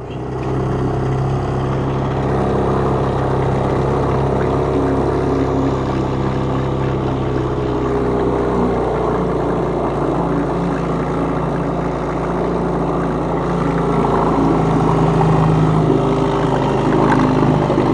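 1965 Evinrude Lightwin two-stroke outboard motor running steadily while warming up after a cold start, choke still pulled out. Its note grows slightly louder in the last few seconds.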